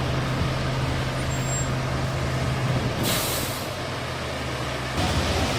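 A large truck's engine running with a steady low hum, and a short loud hiss of air about three seconds in, typical of an air brake release. The engine hum drops away about five seconds in.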